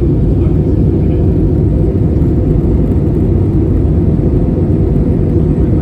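Steady low rumble inside the cabin of an Airbus A320neo, its Pratt & Whitney PW1100G geared turbofan engines running under power.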